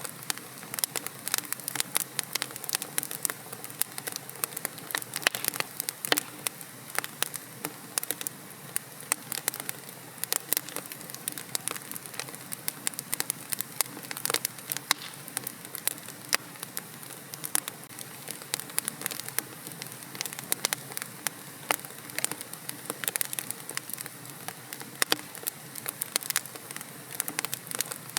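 Wood fire crackling in a fireplace: a dense, irregular run of sharp pops and snaps over a soft steady hiss of burning.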